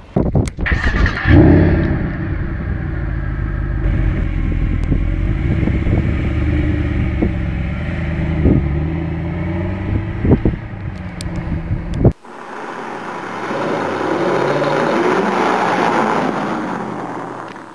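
Mercedes SLS AMG's 6.2-litre naturally aspirated V8 revving hard about a second in, then running on at a steady, deep note. About twelve seconds in the sound cuts abruptly to a rushing noise without the deep engine note, which swells and then fades away.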